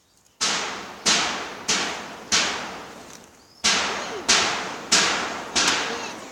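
Loud sharp bangs on roof sheeting, eight in two even runs of four, each ringing briefly as it fades.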